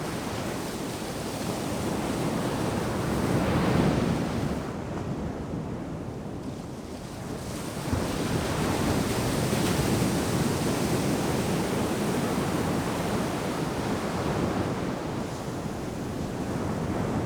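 Ocean surf breaking and washing up a sandy beach in rolling swells, one wave building about four seconds in, easing off, then another breaking about eight seconds in and running on. Wind rumbles on the microphone underneath.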